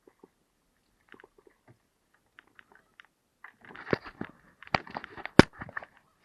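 Irregular crunching and clicking close to the microphone, sparse and faint at first, then dense and louder from about three and a half seconds in, with one sharp loud click near the end.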